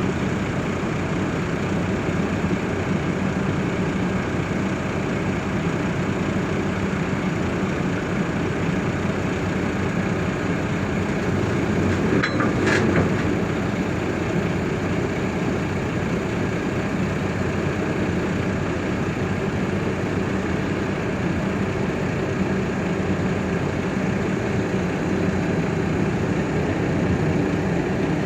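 Excavator's engine running steadily, with a brief high squeal about twelve seconds in.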